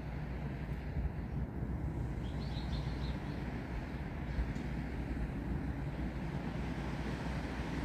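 Steady low rumble of wind. A bird gives a quick run of about five high chirps about two and a half seconds in.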